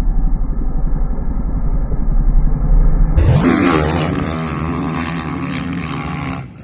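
Motocross bike engines revving, sounding muffled for about the first three seconds, then opening up full and clear with rising revs.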